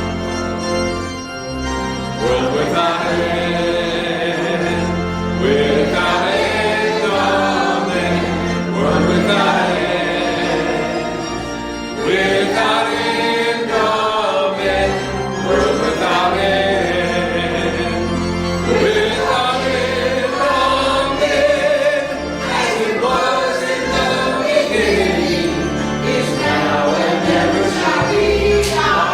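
A choir or congregation singing a hymn with keyboard or organ accompaniment.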